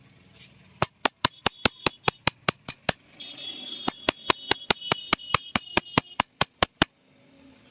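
Rapid, even hammer taps on steel, about six a second, in two runs with a short pause between them. The metal rings lightly under the blows.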